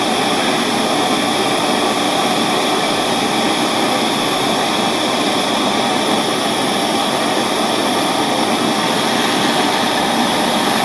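Soldering torch flame hissing steadily, heating an eyeglass frame's hinge joint to melt silver solder.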